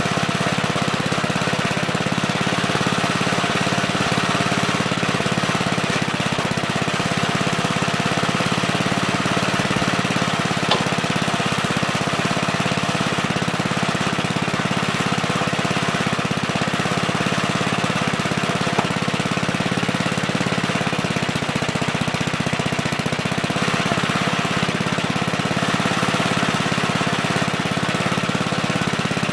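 Gravely Terramite backhoe's engine running steadily at a constant speed while digging, with a couple of faint clicks.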